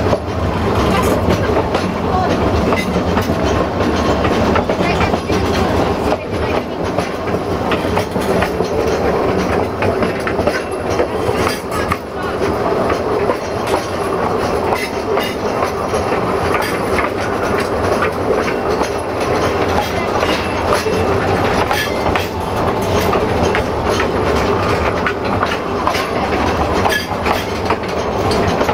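Narrow-gauge steam train carriages rolling along the track, heard on the ride: a steady rumble with frequent clicks of the wheels over the rails.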